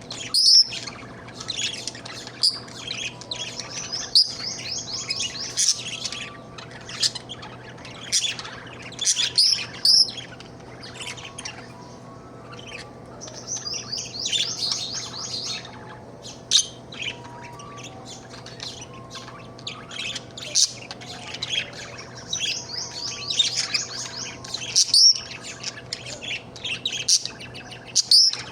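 Budgerigar chirping and warbling: many sharp chirps, with three runs of rapid chattering notes, over a faint steady hum.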